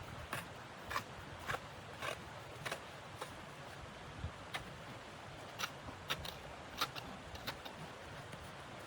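Footsteps crunching in deep snow at a walking pace, about one short crunch every half second, less regular in the second half.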